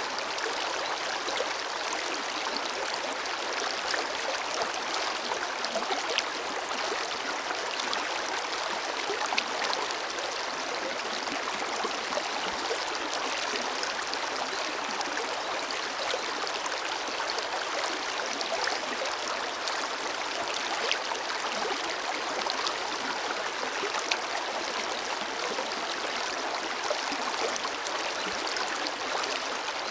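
Forest river flowing over rocks: a steady rush of running water with small gurgles and splashes through it.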